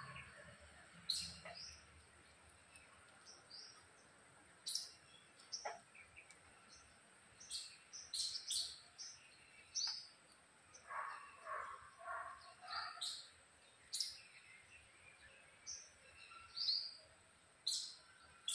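Small birds chirping: short, high chirps scattered every second or so, with a lower run of calls a little past the middle, over a faint steady high-pitched hum.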